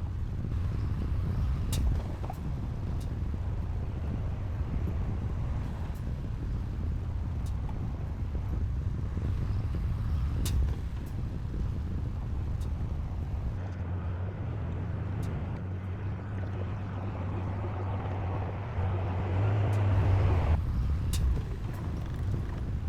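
Diesel engine of heavy earthmoving equipment running steadily, with scattered sharp metallic clicks. Past the middle the engine note changes and builds in loudness, then drops off suddenly a few seconds before the end.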